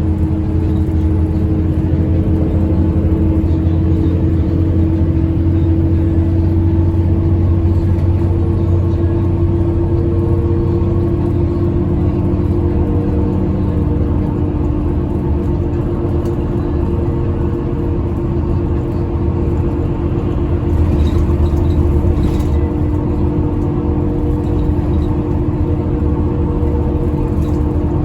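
Express bus engine running steadily at highway cruising speed: a low, even drone with a steady hum over it. There are two faint clicks about three-quarters of the way through.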